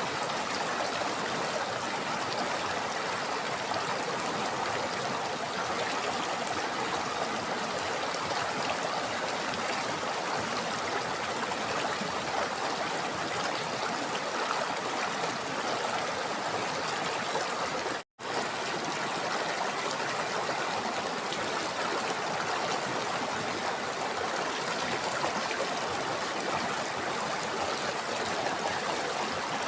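A river flowing over rocks in a steady, even rush of water. About two-thirds of the way through the sound cuts out completely for a split second, then resumes.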